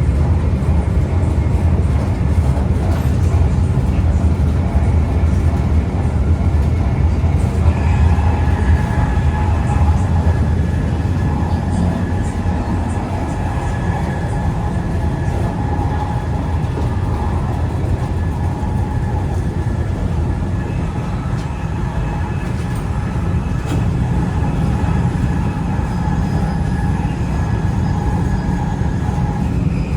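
Taiwan High Speed Rail bullet train running, a steady low rumble with a steady whine that comes in about eight seconds in.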